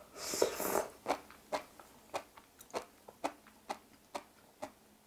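Close-up chewing of sea grapes (umibudo seaweed) in a creamy sauce. A short wet mouth sound as the bite goes in is followed by sharp little crunches or pops at a steady pace of about two a second, as the small beads, which have a texture like flying-fish roe, burst between the teeth.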